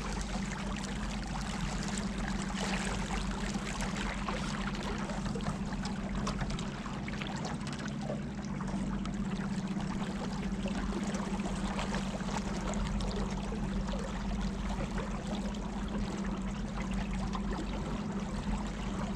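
Motorboat under way: a steady low engine hum beneath water rushing and splashing along the hull.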